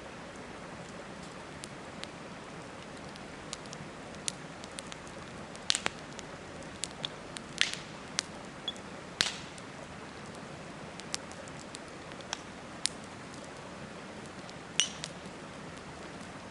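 Campfire crackling, with irregular sharp pops of burning wood, a few louder ones scattered through, over a steady rushing hiss that fits river water.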